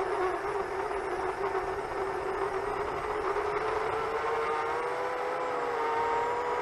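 Chimera 7 LR quadcopter's motors and propellers humming steadily in flight, the pitch drifting slightly up and down with throttle.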